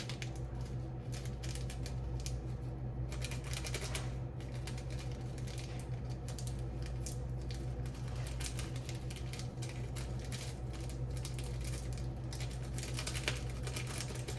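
Irregular light clicks and taps of chopsticks against a bowl as instant noodles are stirred, over a steady low hum.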